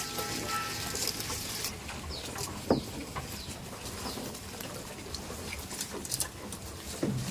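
Birds chirping in short falling calls, with a single sharp knock about two and a half seconds in.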